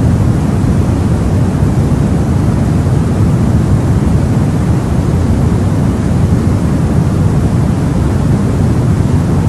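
Steady, unchanging rushing noise of a baby sleep white-noise track, weighted deep and low so it sounds more like a rumble than a hiss.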